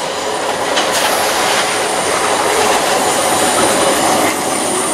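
Class 315 electric multiple unit running along the platform, with the steady noise of its wheels on the rails.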